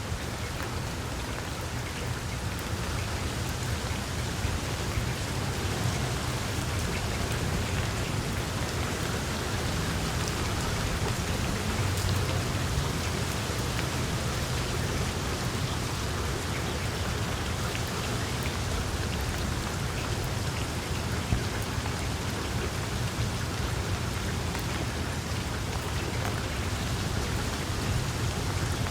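Small wood fire in a fireplace crackling: a steady hiss full of small pops and snaps over a low rumble.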